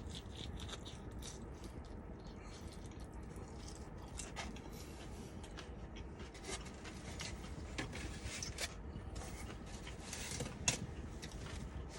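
Faint eating sounds: someone chewing a fried chicken tender, with scattered small clicks and rustles of handled food and packaging and one sharper click near the end.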